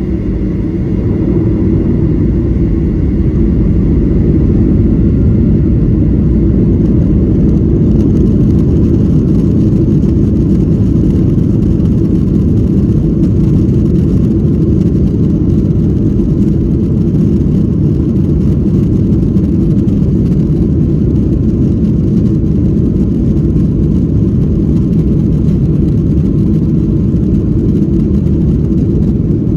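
Cabin sound of a Boeing 737-800 during takeoff: its CFM56-7B turbofans run at high thrust under a heavy, steady low rumble that builds over the first few seconds and then holds.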